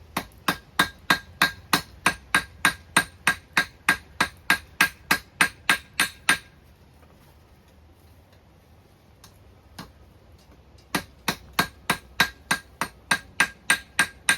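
Blacksmith's hammer striking a chain link on an anvil, about three ringing blows a second. The blows come in two runs, with a pause of about four seconds between them.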